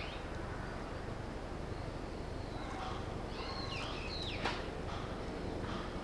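Birds chirping a few short, sweeping calls over a steady outdoor background hiss, with a single sharp click about four and a half seconds in.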